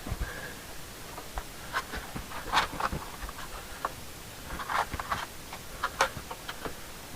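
Scattered light clicks, knocks and rustles of carpet being pushed down into place on a pickup's cab floor, irregular, with the sharpest knocks about two and a half, five and six seconds in.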